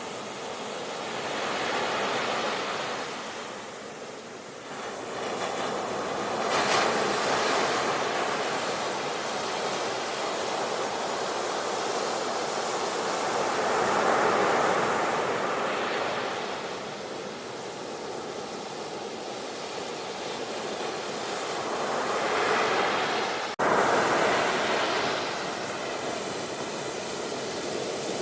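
Sea waves breaking and washing ashore, the surf swelling and falling away every several seconds. About three-quarters of the way through the sound jumps abruptly, as at a splice in the recording.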